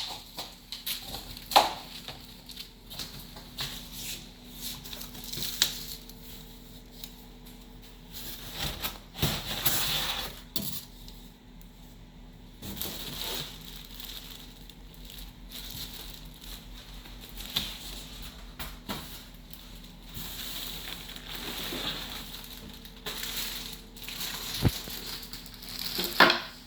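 Cardboard and plastic packaging being handled and pulled apart: irregular rustling and crinkling with scattered knocks and thuds, the sharpest at the very start, about a second and a half in, and near the end. A faint steady hum lies underneath.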